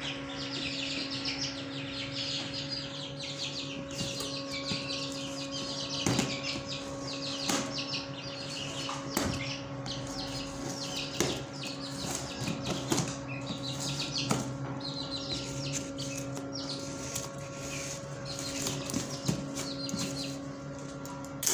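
Many small cage birds chirping and chattering continuously in rapid high notes, with a few sharp clicks scattered through, over a steady low electrical hum.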